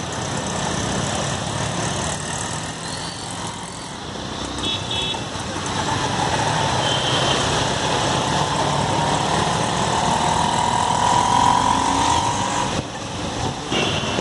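Road traffic: vehicle engines running under a steady wash of noise, with a short beeping horn about five seconds in and an engine note that slowly rises through the second half and then drops away.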